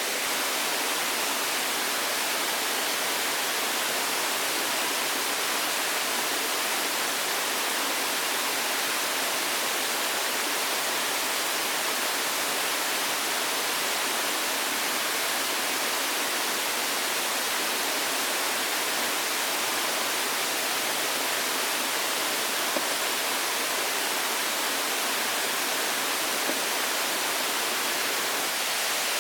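Steady, even hiss of rushing water, unchanging throughout, with two faint clicks in the last few seconds.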